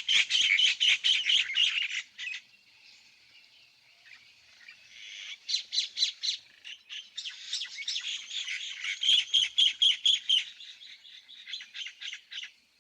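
Small birds chirping in rapid runs of short, high notes. The first burst of chirping gives way to a few seconds of faint chirps about two seconds in, and the chirping comes back dense from about five seconds in.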